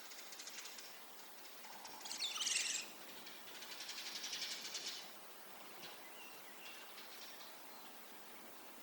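Faint bird calls: a short burst of high chirps about two seconds in, a rapid high trill around four to five seconds, then a few faint short whistles.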